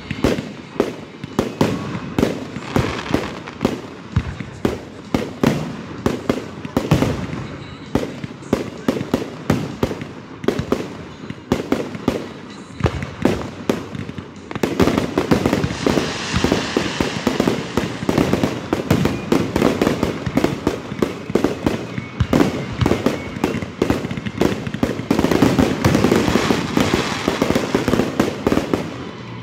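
Aerial fireworks going off in quick succession: a rapid stream of bangs and crackles. About halfway through it becomes denser and louder, a near-continuous barrage.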